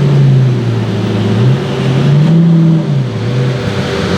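Pagani Huayra BC's twin-turbo AMG V12 engine running loud and being revved, its pitch dipping about a second and a half in, then rising and falling again.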